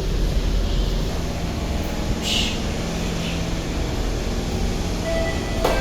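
C151 MRT train standing at the platform with a steady low equipment hum and a short hiss about two seconds in. Near the end there is a sharp click, followed by thin steady tones.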